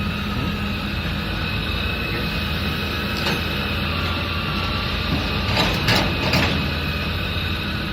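Diesel engine of heavy construction machinery running steadily, with a few short metallic clanks, once about three seconds in and three more in quick succession between five and a half and six and a half seconds in.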